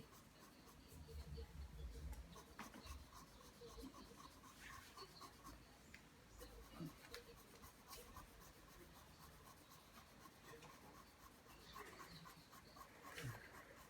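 Pencil scratching faintly across paper as lines are drawn, with small ticks of the lead against the sheet.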